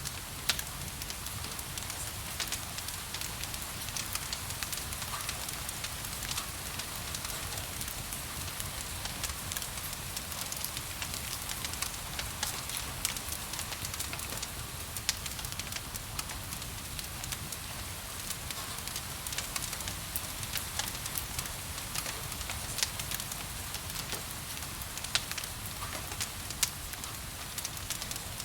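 Wood fire crackling with frequent sharp pops, over a steady hiss of rain.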